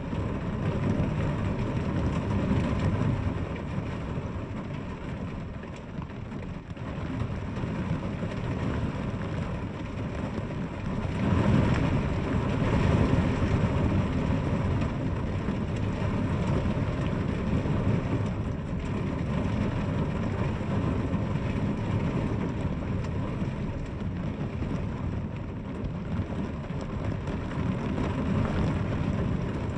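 Steady rain falling, a continuous hiss over a deep low rumble, swelling louder for a few seconds near the middle.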